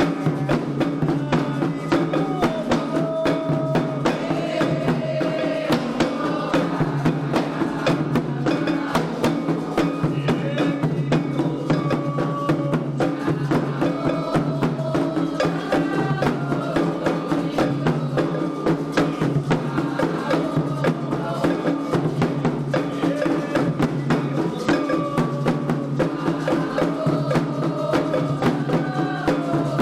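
Candomblé ritual music: drums beating a steady, fast rhythm with sharp wood-block-like strikes, under a pitched melodic line that moves in steps.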